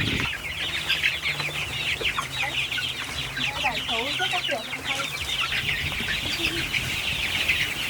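A flock of young native chickens calling continuously: many overlapping short, high-pitched calls, with a few lower clucks mixed in.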